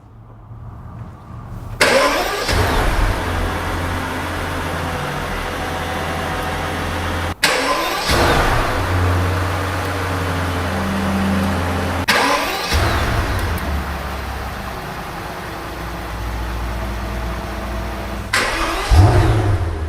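Mercedes-Maybach S680's twin-turbo V12 engine running and revving, heard in several short segments joined by abrupt cuts, after a quiet start of about two seconds.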